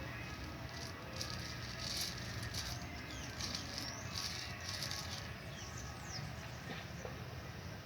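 Birds chirping and chattering in short, high bursts with quick falling notes, over a steady low hum.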